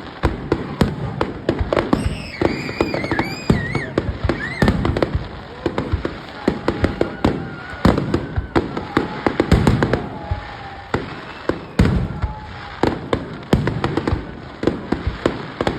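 Fireworks display: a rapid, continuous run of bangs and crackles from bursting shells, several reports a second with heavier booms among them.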